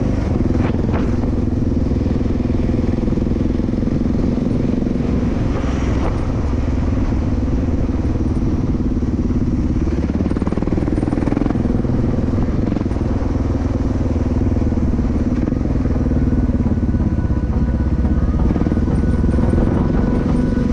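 Suzuki DR 650's single-cylinder engine running steadily under way, with small rises and dips in pitch as the throttle changes.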